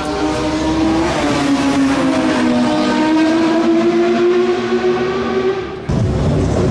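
Car engines running at fairly steady revs, two pitches drifting slowly, one rising and one falling. About six seconds in, the sound cuts abruptly to a louder, rougher engine of a car on the track.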